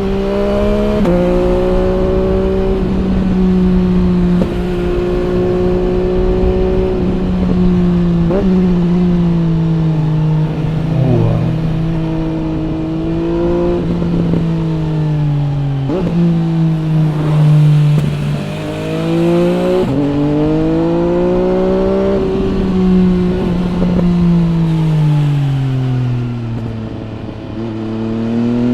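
MV Agusta Brutale 800 RR's three-cylinder engine through a Corse trio exhaust, ridden hard. The revs climb and fall repeatedly, with sudden steps in pitch at each gear change and a long slow fall in revs near the end.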